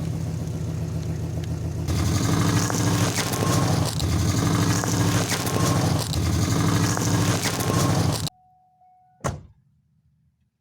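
Heavy truck engine running loudly and steadily, cut off abruptly about eight seconds in. Near silence follows, then a single sharp click.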